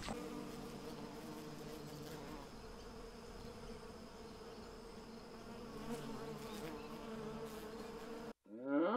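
Bees buzzing, a steady hum. It cuts off abruptly near the end, and a drawn-out animal call with a rising pitch begins.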